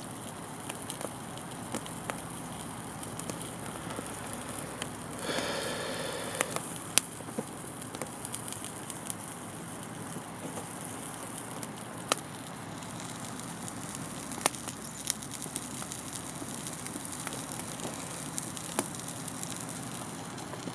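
Wood campfire crackling, with irregular sharp pops over a steady hiss. About five seconds in, a brief pitched whine lasts for about a second.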